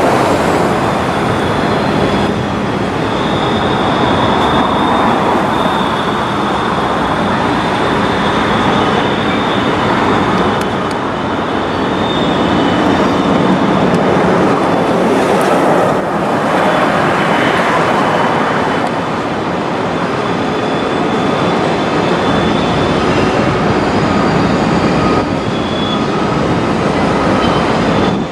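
Freight train rolling past, a steady loud noise of cars and wheels on the rails, with a thin high wheel squeal that comes and goes.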